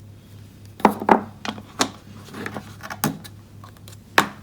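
Light taps and clicks of hands working at a craft desk, inking a small cardstock piece with a Versamark ink pad, about half a dozen scattered strokes. A faint steady low hum runs underneath.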